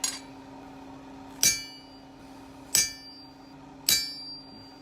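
Hammer blows on a small punch, scoring a centre line into a steel bar on the anvil: four strikes about a second and a quarter apart, each with a short metallic ring.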